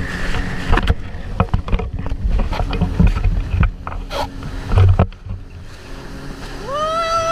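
Jet ski running on open water, a low rumble broken by repeated slaps and splashes from the hull hitting the chop and wind striking the microphone. About six and a half seconds in, a clear tone rises quickly and then holds steady.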